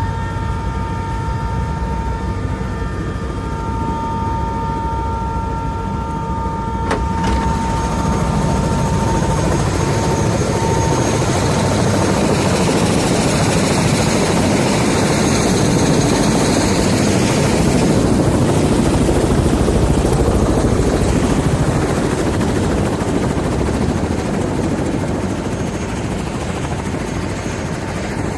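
Helicopter running, its turbine and rotor making a loud, steady noise with a high whine that fades after about ten seconds as the noise grows louder.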